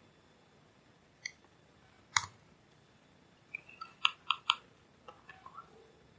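Scattered small, sharp clicks and taps from handling small hard objects: a loud one about two seconds in, a quick run of three about four seconds in, then a few fainter ticks.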